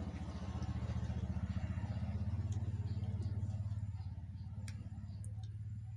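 An engine running close by: a low, fast-pulsing drone that swells and then eases off a little.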